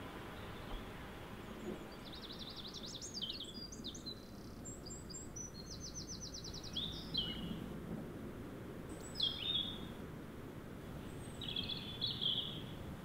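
Small birds singing several short, high-pitched phrases a few seconds apart, one of them a fast trill, over a steady low background noise.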